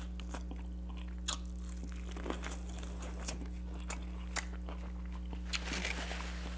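Close-miked biting into corn on the cob and chewing it, with several short, sharp crunches of kernels spread through, over a steady low hum.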